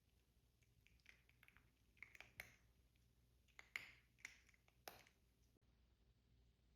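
Near silence: quiet room tone with a scattering of faint short clicks and rustles.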